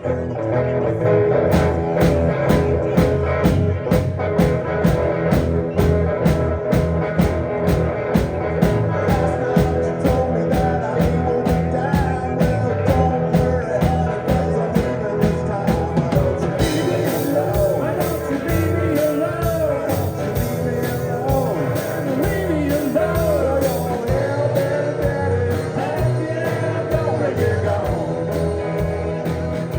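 Live band playing an instrumental break of a country-rock song: drums keeping a steady beat under bass and guitar. About halfway through, the cymbals get brighter and a lead line with bending notes comes in.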